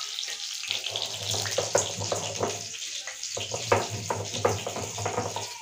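Potatoes sizzling in hot oil in a kadai, mixed with the scraping and knocking of a stone roller grinding spices on a stone slab (sil-batta).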